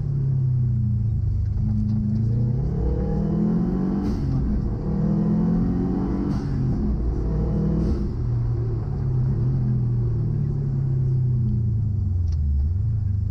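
Subaru Impreza GC8's flat-four engine heard from inside the cabin under hard driving, its pitch climbing three times in quick succession, each climb cut off by a short sharp break as the next gear goes in. After that the revs fall away and pick up again as the car brakes and turns.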